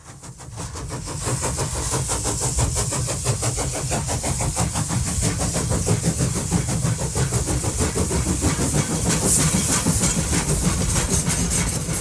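Train chugging with a fast, even rhythm over a steady hiss, fading in from silence over the first second or so.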